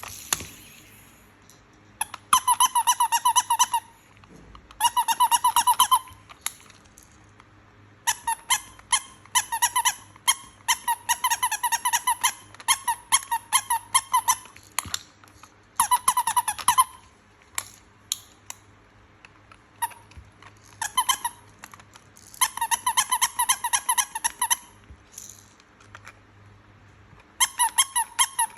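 Toy turtle squeaking: runs of rapid, high-pitched chirping squeaks, each run lasting a second or two, repeated again and again with short pauses between.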